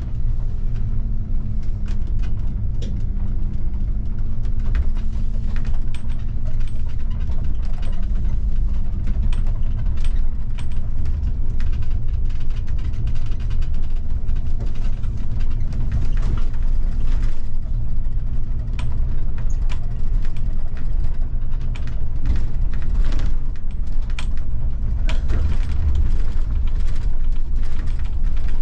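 A bus driving, heard from the driver's cab: a steady low engine and road rumble with frequent rattles, clicks and creaks from the bus's fittings.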